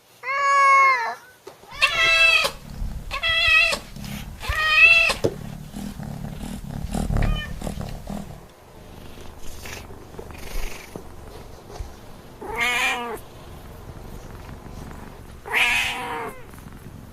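Domestic cat meowing: a run of four short meows in the first five seconds, then two more spaced out later, each rising and falling in pitch.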